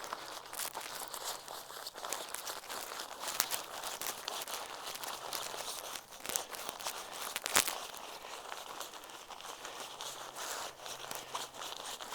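Crinkling and rustling of an inflatable sleeping mat's nylon fabric as it is rolled and folded, with a steady stream of small crackles and a few sharper clicks, the loudest a little past halfway.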